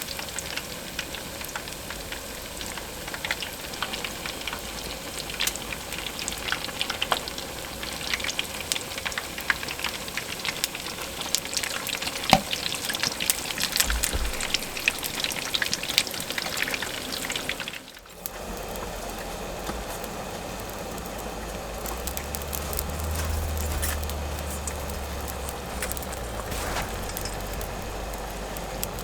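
Food frying in hot oil over a campfire: dense crackling and sizzling. About 18 seconds in it cuts off suddenly and gives way to a steadier, softer sizzle with a low rumble.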